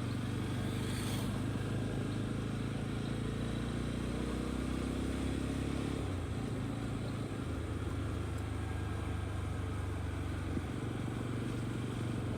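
Yezdi 42 motorcycle's single-cylinder engine running steadily, its pitch rising gently a few seconds in.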